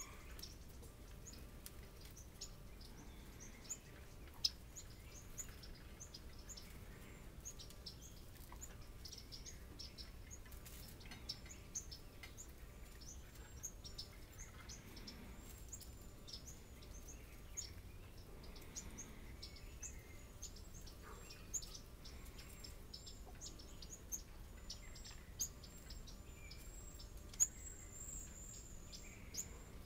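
Small songbirds calling: many short, high chip notes in quick succession, with a few sharper, louder clicks scattered through.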